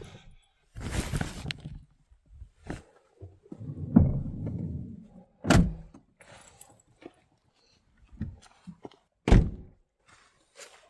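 Irregular thuds and knocks from things being handled in and around a car, with two sharp thumps about five and a half and nine seconds in.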